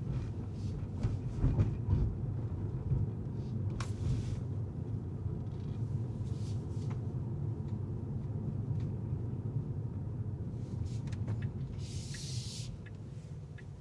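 Car driving on city streets: steady low road and engine rumble, with scattered faint clicks and a brief hiss near the end.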